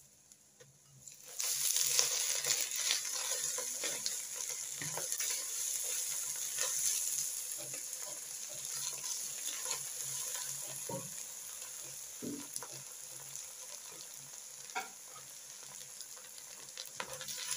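Ginger and garlic hitting hot oil and fried onions in a pot, setting off a sudden loud sizzle about a second and a half in that slowly dies down, with small scrapes and taps of the bowl and spatula against the pot.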